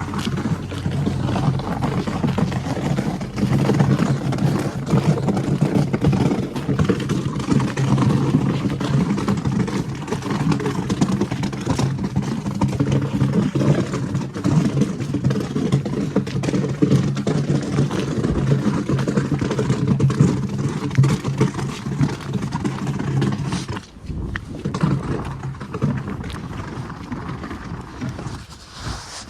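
An engine running at a steady speed, stopping or fading away about 24 seconds in, with wind and outdoor noise behind it.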